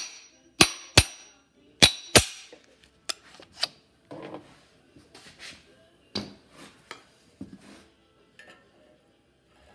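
Hammer taps on a steel exhaust pipe expander to knock it loose from the pipe it has just expanded: five sharp metallic strikes with ringing in the first two seconds or so, then lighter clinks and knocks of metal parts being handled.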